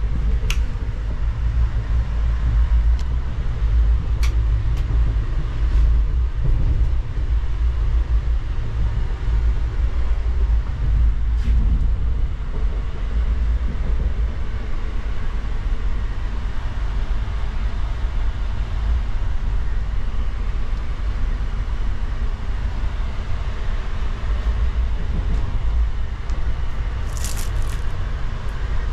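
Steady low rumble of an Indian Railways sleeper carriage running, heard from inside a compartment, with a few light clicks or rattles and a short cluster of them near the end.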